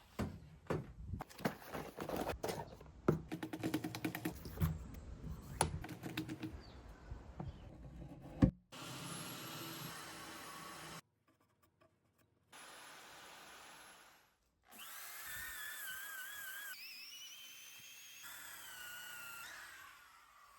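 Woodworking power tool running in short edited bursts, with clatter and knocks and one sharp loud knock about eight seconds in, followed by stretches of steady noise broken by short silent gaps.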